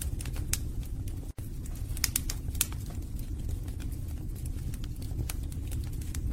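Wood fire burning in a fireplace: a steady low rumble with sharp, irregular crackles and pops of burning logs. The sound cuts out for an instant about a second and a half in.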